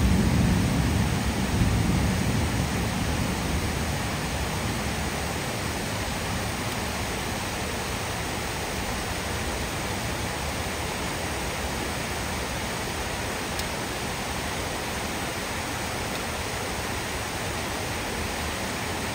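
Heavy rain pouring steadily onto dense trees, an even hiss. A low rumble of thunder dies away over the first few seconds.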